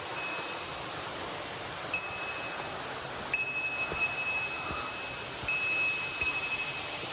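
A small metal bell rings with one clear high tone, struck about six times at uneven intervals as it is jostled, over a steady hiss of flowing water.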